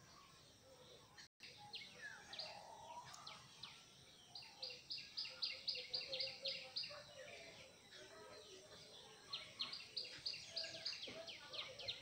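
A bird calling in fast runs of short, high, dropping chirps, about six a second. One run starts about four seconds in and a second comes near the end, over fainter background calls.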